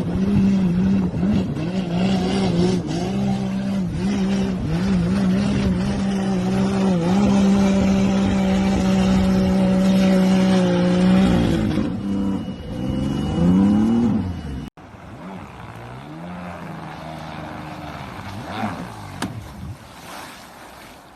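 Jet ski engine running hard, its pitch wavering up and down, with a few quick rising revs about twelve seconds in. It cuts off suddenly to a quieter engine running at lower revs.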